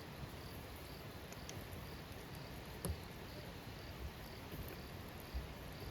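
Wood campfire burning quietly with an occasional soft crackle, while an insect chirps faintly about twice a second in the background.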